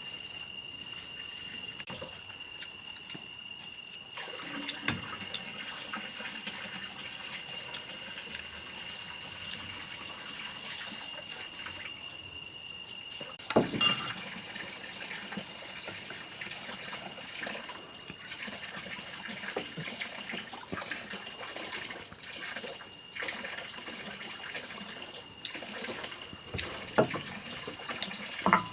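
Water splashing and dribbling with many small irregular knocks, under a steady high insect trill; one louder knock about halfway through.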